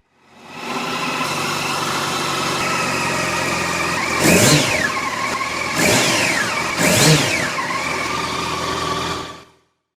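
Yamaha FZ8 Fazer's inline-four engine idling through a GRmoto X Series aftermarket exhaust, blipped three times in the middle so the pitch rises and falls quickly each time, then settling back to idle.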